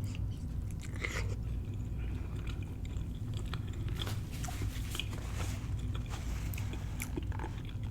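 Close-up chewing of cornmeal-fried catfish: small crunches and short clicks scattered irregularly over a low steady hum.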